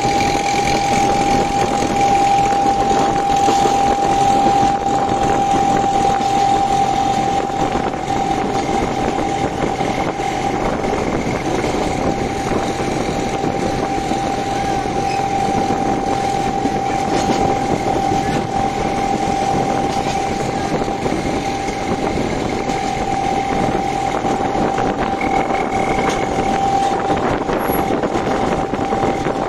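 Narrow-gauge train running along the track: a steady rumble with a constant high whine held throughout.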